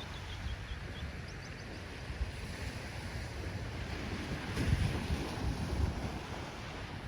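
Ocean surf washing steadily, with a louder wave surging about two-thirds of the way through. Wind buffets the microphone with a low rumble.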